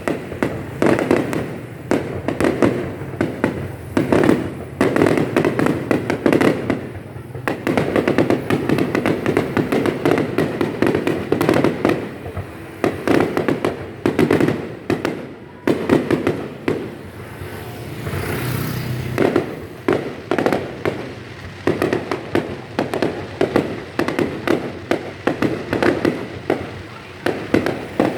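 Fireworks going off in rapid volleys of sharp bangs and crackle, with a few brief lulls between clusters.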